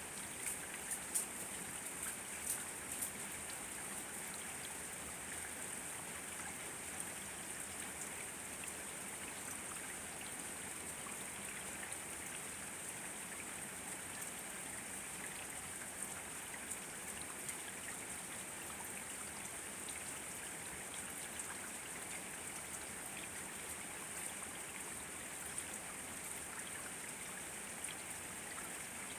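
Steady rain falling, with a few sharper, louder drops in the first three seconds.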